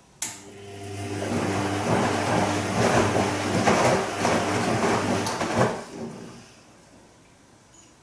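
Bosch Serie 2 VarioPerfect front-loading washing machine on its gentle Silk programme: a click, then the motor hums as the drum turns and the wash water and laundry slosh for about six seconds. The drum then stops for a rest pause.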